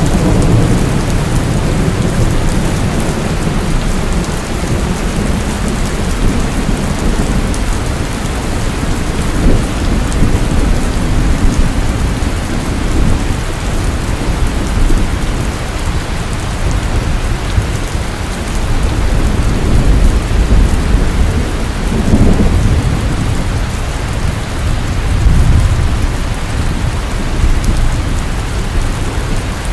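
Steady heavy rain falling, with low rumbles of thunder that swell several times.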